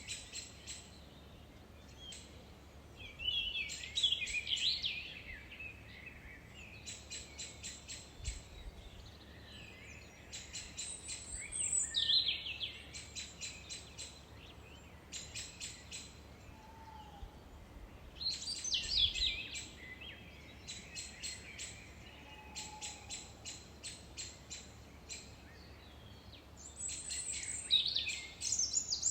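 Songbird singing: runs of quick, sharp, evenly spaced notes alternate with louder twittering warbled phrases, the pattern recurring about every seven to eight seconds, over a faint steady background hiss.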